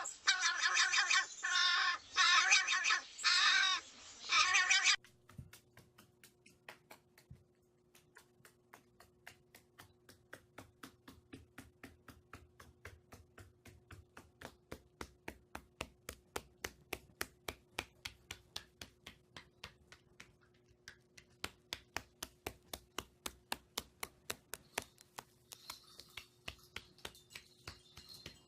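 A crow cawing loudly, four or five harsh calls in quick succession. Then a long run of quick, sharp taps, about three or four a second, over a faint steady hum.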